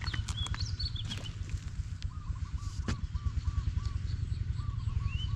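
Birds calling with short rising and falling chirps and whistles, and a run of short repeated notes in the middle, over a steady low rumble, with a few sharp knocks.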